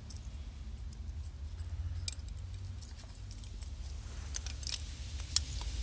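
A car engine wiring harness being handled, its plastic connectors and clips giving scattered light clicks and rattles, most of them in the second half, over a steady low rumble.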